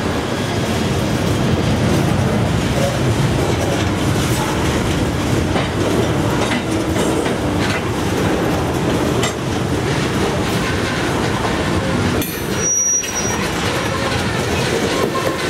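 Loaded coal hopper cars of a freight train rolling slowly past: a steady rumble of steel wheels on rail, with clacking from the wheels and a short high squeal late on.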